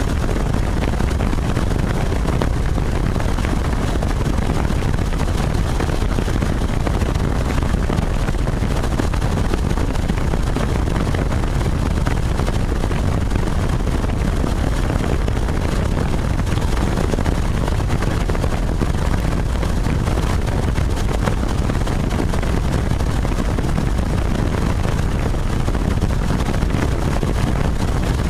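Helicopter in flight: a loud, steady rumble that holds unchanged throughout.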